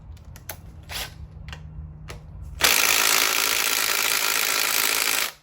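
A few light metallic clicks of hand tools, then a power tool on the engine's bolts runs steadily for close to three seconds and stops suddenly.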